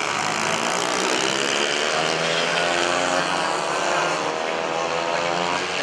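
Several mini bike engines running hard at race pace. Their overlapping pitches rise and fall as the bikes accelerate and pass.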